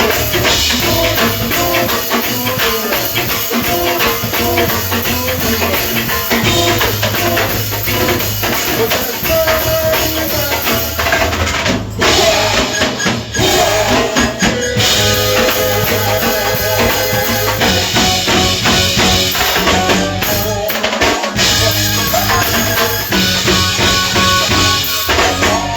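Live go-go band playing a groove: a drum kit and percussion with tambourine over a steady bass line.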